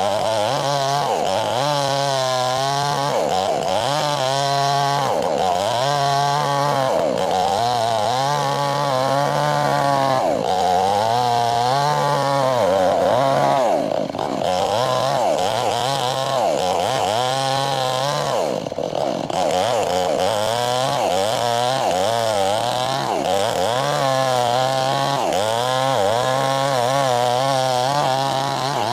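Chainsaw cutting lengthwise through a log to split it, running hard throughout; the engine note rises and dips over and over, about every second or two, as the chain bites in and eases off.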